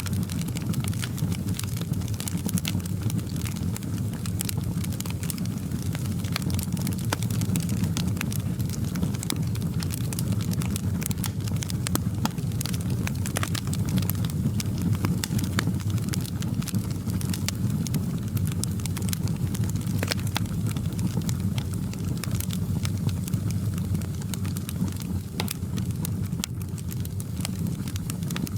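Wood fire crackling in a fireplace: a steady low rumble of the flames with many sharp, irregular pops and snaps.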